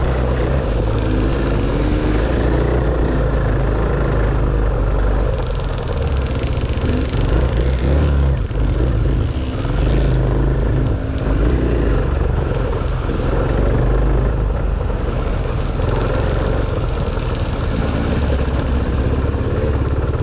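Dirt bike engine running under load on a trail ride, its revs rising and falling continuously as the rider works the throttle.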